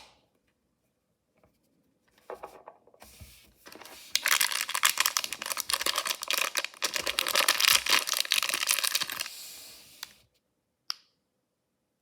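Packaging of a mystery toy being torn open and crinkled by hand, a dense crackling that grows loud for several seconds and then dies away, followed by one short sharp click near the end.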